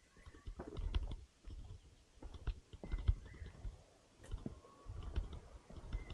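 Footsteps crunching and thudding on the forest floor of a walking trail, in uneven groups of clicks and thumps about every two seconds, with a few faint short bird chirps.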